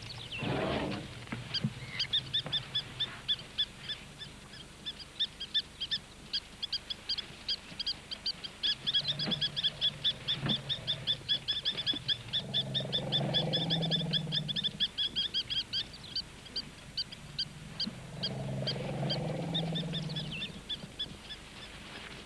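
Spur-winged plover giving a long run of sharp, high alarm notes, about four a second, the call of a nesting plover against intruders. Two deep rumbles sound beneath it, about halfway through and near the end.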